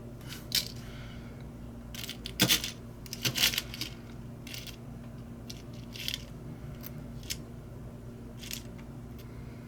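Small metal drill bits and tools clinking and tapping as they are handled and sorted, with a cluster of louder clinks a few seconds in, over a steady low hum.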